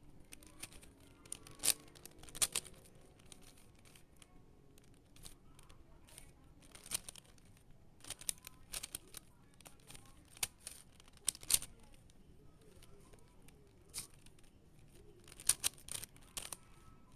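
Plastic puzzle cube being turned by hand: irregular sharp clicks and clacks of the layers snapping round, some coming in quick clusters.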